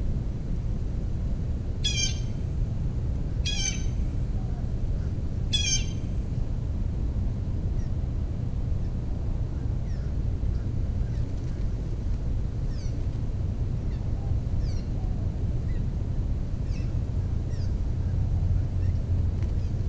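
Three short, loud bird calls in the first six seconds, then faint scattered chirps, over a steady low rumble.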